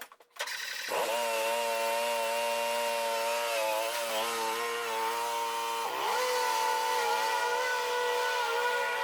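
A motor starts up and spins up to a steady running pitch within the first second, then runs with a strong hum. About six seconds in its pitch sags briefly, as if under load, and recovers.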